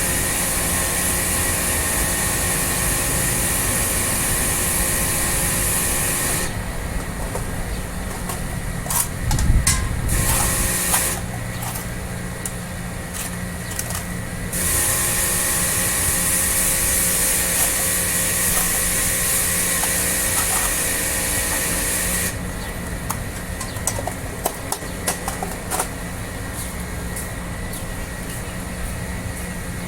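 High-pressure water spray hissing in long bursts that cut off for several seconds and start again, over a steady motor hum. In the gaps between bursts there are small clicks and knocks.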